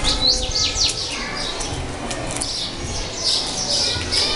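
Small birds chirping in quick, high, repeated notes, thickest near the start and again toward the end.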